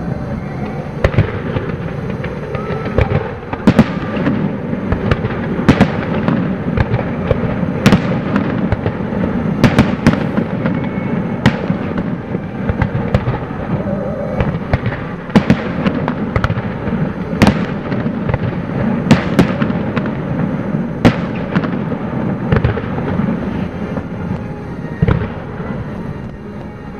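Aerial fireworks display: shells bursting in an irregular series of sharp bangs, roughly one a second, over a steady low rumble.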